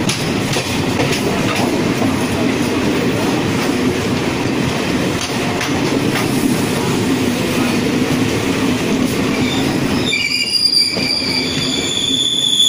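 MEMU electric commuter train running on the track, heard from on board: a steady low rolling noise with occasional wheel clicks over rail joints. About ten seconds in the rolling noise eases and a high-pitched wheel squeal sets in and holds.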